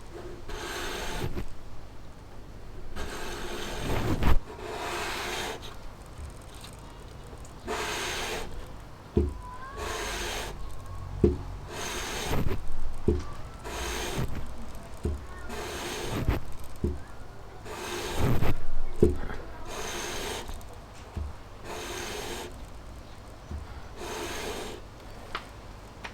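Warped carburetor mounting base being rubbed back and forth on sandpaper over a flat surface to flatten it: repeated rasping strokes, roughly one a second with short pauses, and a few low knocks between them.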